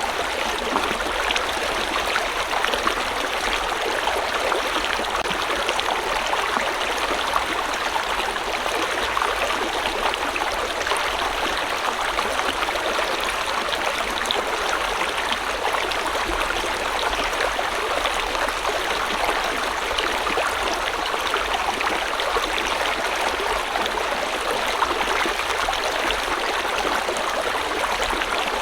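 Steady flow of a river or stream over rocks: a continuous rushing and babbling wash of water with fine splashing detail.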